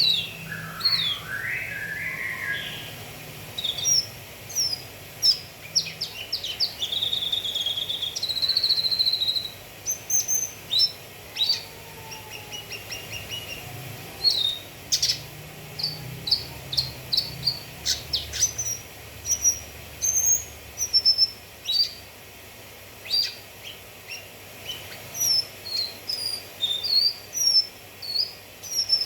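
Cucak kinoi songbird singing: a busy string of sharp chirps, short whistled notes and brief trills, some notes held for about a second.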